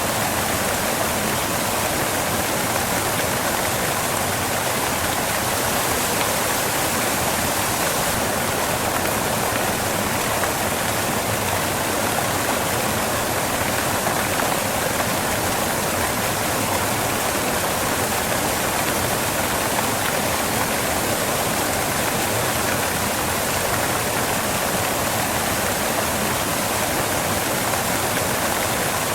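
Waterfall rushing and crashing onto rocks: a steady, unbroken hiss of falling water.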